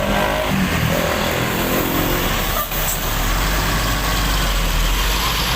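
Large diesel bus engine running close by, with a steady low rumble that grows stronger in the second half. A brief sharp sound cuts through it a little under three seconds in.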